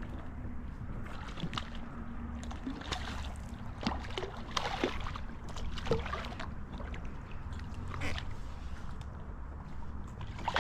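Water sloshing against a fishing kayak, with scattered light knocks and small splashes.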